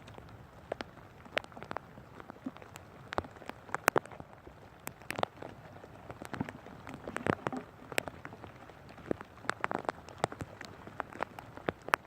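Rain falling, with a steady light hiss and many irregular sharp taps of drops striking close by.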